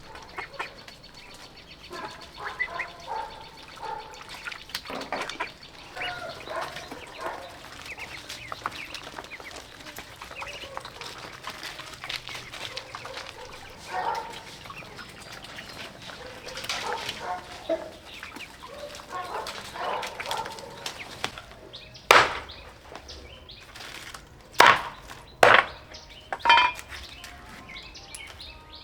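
Domestic poultry calling on and off in short calls. A few sharp, loud sounds come in the last third.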